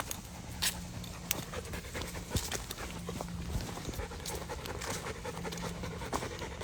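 Belgian Malinois panting steadily while walking, with a few sharp footstep clicks on the trail.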